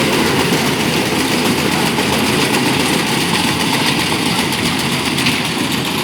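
Rice harvesting machine's engine running steadily, with a dense, even mechanical clatter and rush of its working parts.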